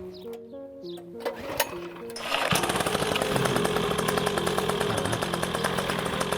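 Soft plucked music notes, then a little over two seconds in a small engine starts and runs loud and steady with a fast, rattly pulse.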